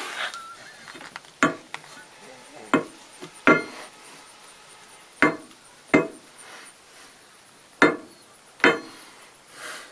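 Hammer blows driving the axle bolt into the chicken tractor's wooden frame: seven sharp strikes at uneven intervals, each with a short metallic ring.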